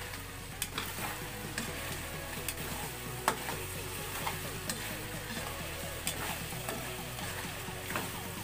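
Chicken pieces sizzling in an aluminium wok as they are stirred with a metal spatula. The spatula gives sharp clinks and scrapes against the pan every second or so, the loudest about three seconds in.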